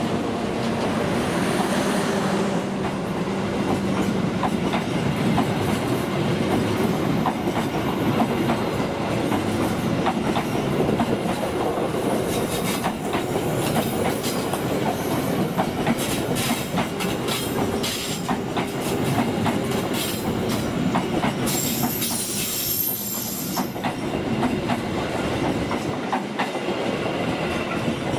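KA Argo Cheribon passenger train departing and rolling past close by, its wheels clattering steadily over rail joints and points. A brief high-pitched wheel squeal comes about three-quarters of the way through.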